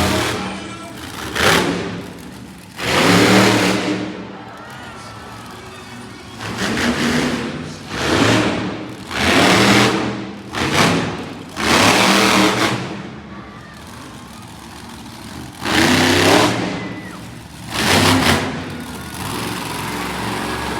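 Monster truck engine revving hard in a series of short bursts, about nine in twenty seconds, over a steady lower din of engine noise.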